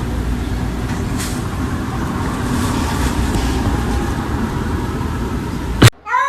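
Steady low rumble of a vehicle in motion, cut off by a sharp click near the end; a cat starts to meow at the very end.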